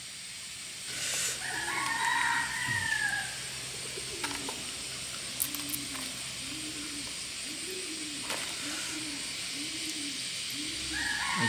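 A rooster crowing about a second in, then a hen clucking in a slow, even series, and another crow starting near the end.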